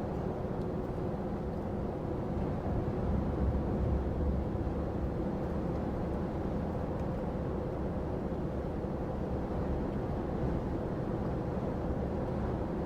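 Steady engine and road rumble inside the cab of a heavy goods lorry on the move, with a brief swell in the low rumble about three to four seconds in.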